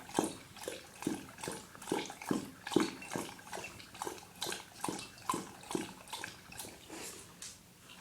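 A dog lapping water from a bowl, a steady rhythm of wet laps at about two and a half a second. The laps thin out and stop near the end.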